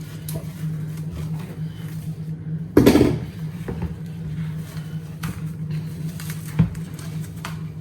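Cling wrap being stretched and handled over a bowl of rice, with light crinkling clicks and one louder crackle about three seconds in. A short low thump comes near the end, over a steady low hum.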